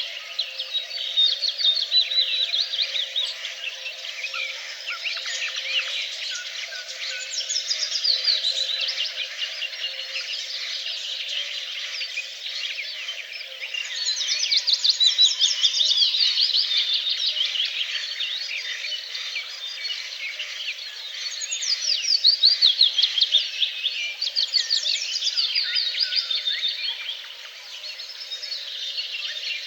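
A chorus of many songbirds singing at once: overlapping quick chirps and rapid high trills, with louder stretches about halfway and three-quarters of the way through.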